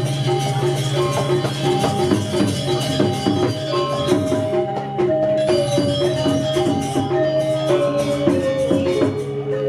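Balinese gamelan music: pitched metal notes repeating in a fast pattern over a held low tone, with busy clashing percussion throughout.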